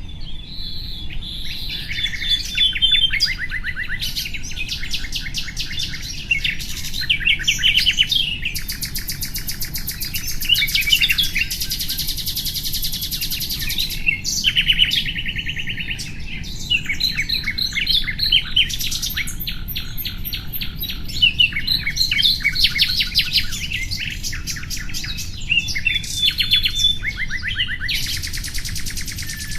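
Common nightingale singing a long run of varied phrases: rapid repeated-note trills, whistles and buzzy rattles, each phrase a second or two long and separated by short pauses. A faint steady low background noise sits underneath.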